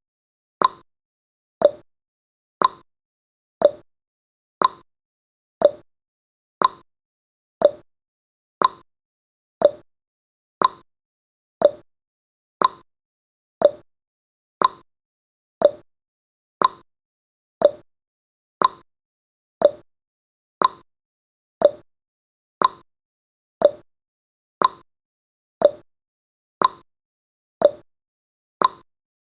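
Countdown timer's clock-style tick-tock sound effect: one short, sharp tick each second, alternating between a higher and a lower click.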